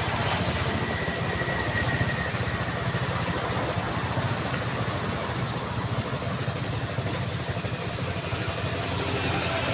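Street traffic: vehicle engines running steadily with a low rumble, no single event standing out.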